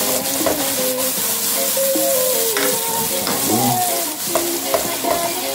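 Diced carrots, peppers and corn sizzling in hot curry oil in a nonstick wok while a wooden spoon stirs them, with a few sharp taps of the spoon against the pan.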